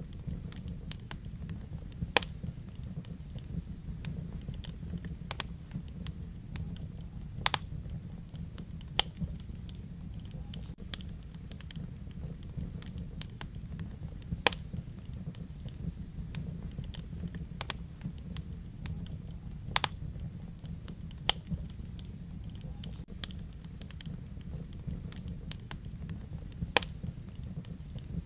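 Wood fire burning in a fireplace: a steady low rumble of flame with irregular sharp crackles and pops from the burning logs, a few louder snaps standing out.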